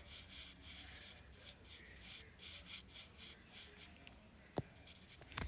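Writing strokes: a rapid run of short, scratchy strokes as a word is lettered, followed by two light taps near the end.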